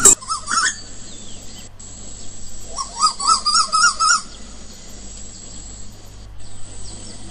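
A quiet break over a low steady hum, with a bird's warbling call: a short one just after the start and a longer run of quick wavering notes about three to four seconds in.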